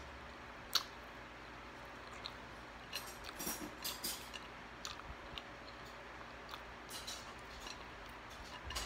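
Close-up chewing of french fries, with scattered short, crisp clicks and crackles: one sharp click a little under a second in and a cluster of crackles around three to four seconds in.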